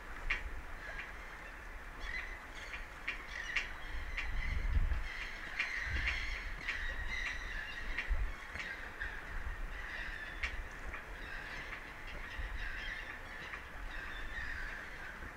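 Birds calling over and over in short, honking notes, over a low rumble of wind on the microphone that swells about four to six seconds in.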